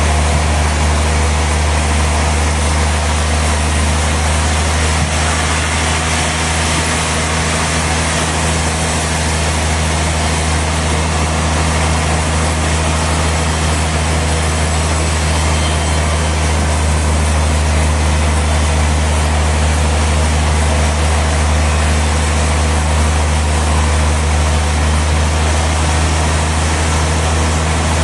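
Sawmill machinery running steadily: a constant low engine drone with a hiss over it, unchanging throughout.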